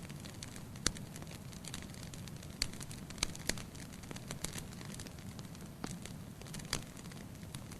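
Wood fire burning in a fireplace: irregular sharp crackles and pops of the burning logs over a low, steady rumble of the flames.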